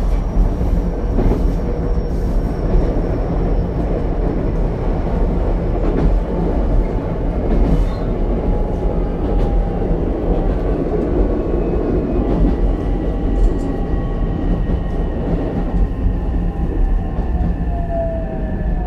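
Ichibata Electric Railway 7000-series electric railcar heard from inside the car while running: a steady rumble of wheels on the rails, with faint whining tones over it and a gliding tone near the end.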